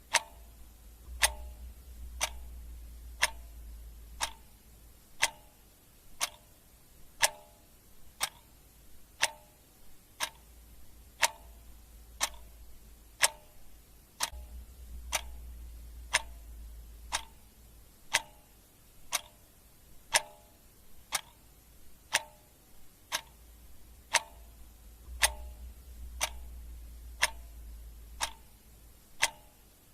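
A clock ticking steadily at an even pace, each tick a sharp click. Underneath, a faint low rumble swells and fades a few times.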